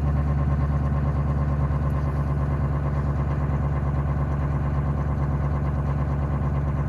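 6.5L turbo diesel V8 running steadily at a raised idle, set with its high idle switch, warming up just after a cold start.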